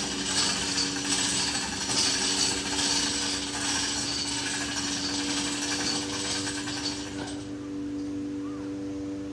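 A power tool running with a rasping hiss for about seven seconds, then stopping, over a steady hum.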